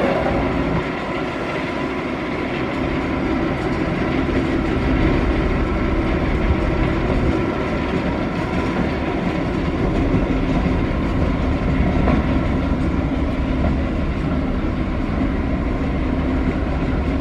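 Railway train sound: a steady low rumble with a constant hum.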